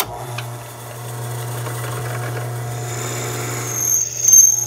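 Drill press running with a steady motor hum as a twist bit cuts into an aluminium plate, rising to a high-pitched squeal near the end as the bit bites.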